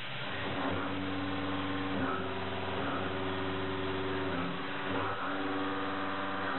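A 2-inch five-flute Rhino-Feed mid-feed shell mill cutting 4140PH steel at 1050 RPM, .035-inch depth of cut. It makes a steady humming tone with overtones, pitched at the rate the inserts strike the steel. The tone sets in shortly after the start, with brief dips every second or so.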